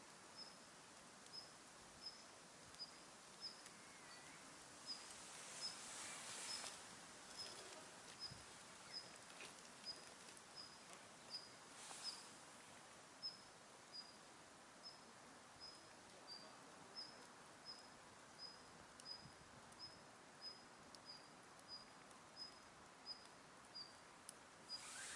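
Faint, steady series of short, high chirps, about one and a half a second, from a small calling animal. Occasional faint crackles from the campfire, with a brief rush of noise around six seconds in.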